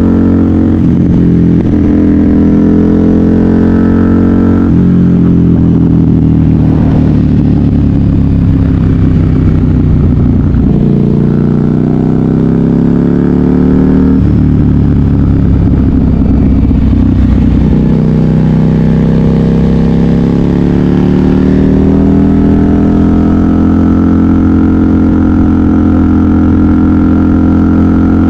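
KTM 990 Super Duke R V-twin engine through a custom exhaust, revving up under acceleration with sharp pitch drops at gear changes. There are three upshifts in the first half and a dip as the throttle eases, then a long climb that levels off at steady revs near the end.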